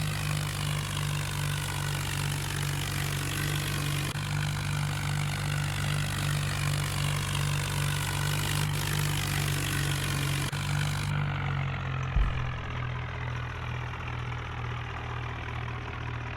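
Swaraj 855 tractor's three-cylinder diesel engine idling steadily, with a brief thump about twelve seconds in, after which the engine note settles slightly lower.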